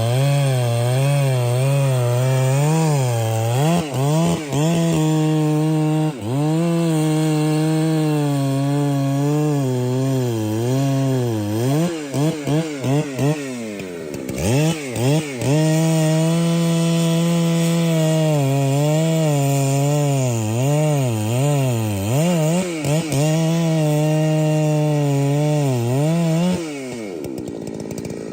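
Two-stroke chainsaw running hard while sawing through a tree, its engine note wavering and dipping again and again as the throttle is eased and the chain bogs in the cut. Near the end it drops back to a much quieter, lower running.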